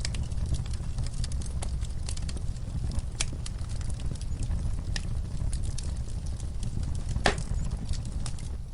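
Wood fire crackling in a fireplace: irregular crackles and pops over a steady low rumble of burning, with one louder pop about seven seconds in.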